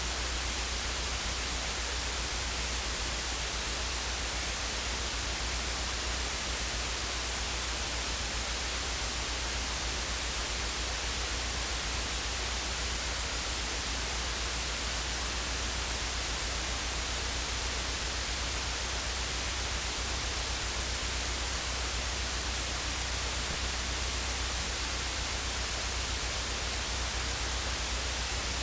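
Steady static hiss with a constant low hum underneath, unchanging throughout: electrical noise in the recording, with no engine running.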